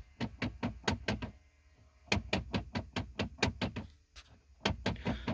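Blend door actuator behind the dashboard of a 2005 Nissan Titan knocking rapidly, several sharp slaps a second in three runs, as the climate-control knob is turned. This slapping is the sign of a faulty blend door actuator.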